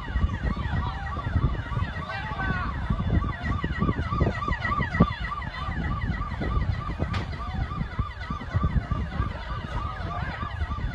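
A siren with a fast-repeating rising-and-falling tone, about three cycles a second, over a heavy low rumble.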